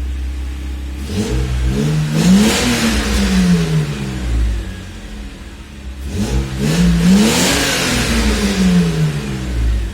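Mercedes-Benz W124 E500's V8 engine revved twice from idle, each rev rising and falling back over about three seconds, with idle between them.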